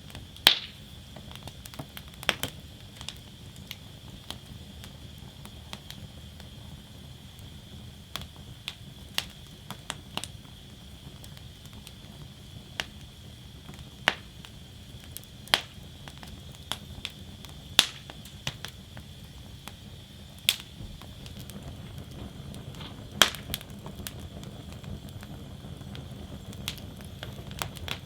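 Wood fire burning in a metal fire basket, with a low steady rumble of flames and sharp crackles and pops of the burning wood every second or two.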